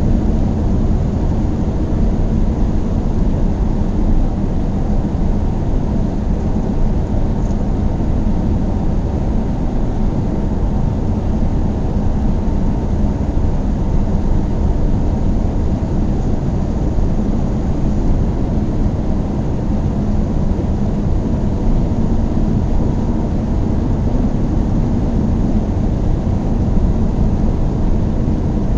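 A car driving at a steady speed: a constant low rumble of engine and tyre road noise with no changes in pace.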